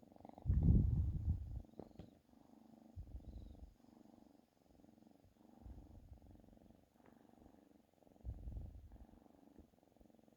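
Domestic cat purring continuously, with the low rumble swelling louder four times, about every two and a half seconds, in time with its breathing.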